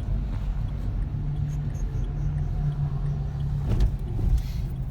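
Renault Symbol taxi's 1.5 diesel engine and road noise heard from inside the cabin while driving: a steady low rumble with a held hum.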